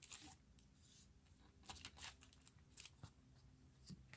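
Faint scattered rustles and light taps of cards being handled, over near silence.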